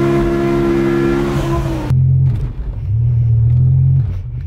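The BMW E60 M5's V10 engine is heard from inside the cabin, running at a steady note. About two seconds in, the note cuts abruptly to a low, rough drone. This is the unwelcome noise that came with the car's clutch and gearbox failure.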